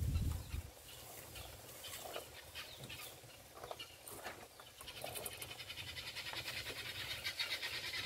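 Faint bird calls, turning into a fast, steady trill from about five seconds in. Under them are soft scattered clicks of fingers working stones and soil inside a glass fishbowl terrarium.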